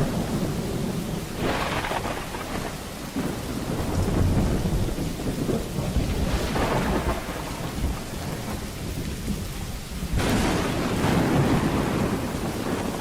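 Thunderstorm: steady rain with thunder rumbling throughout. Three louder thunder surges come about a second and a half in, around the middle, and loudest just after ten seconds.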